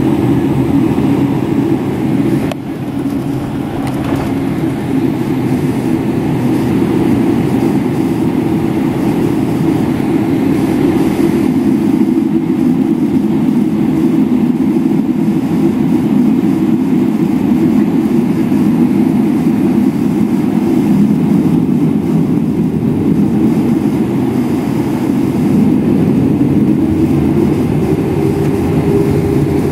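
Inside the cabin of a Boeing 777-300ER during the takeoff roll: its two GE90-115B turbofans run at takeoff power, a loud, steady deep rumble with the wheels rumbling over the runway.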